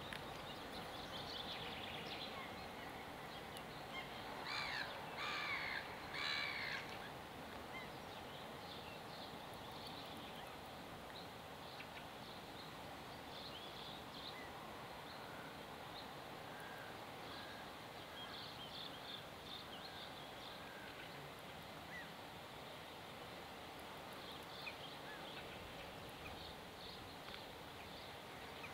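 Outdoor ambience with birds calling: three louder calls about five to seven seconds in, then faint scattered chirps over a steady background hiss.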